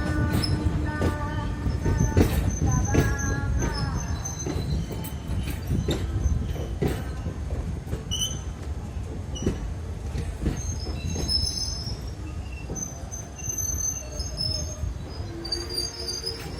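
Passenger train rolling slowly into the station: a low rumble of the wheels with repeated clacks over rail joints and short high-pitched squeals from wheels and brakes. It grows gradually quieter as the train slows.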